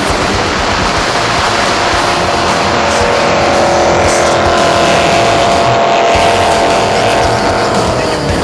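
Jet boat engine running hard at high revs over a loud rush of water and spray, its pitch sagging slightly near the end.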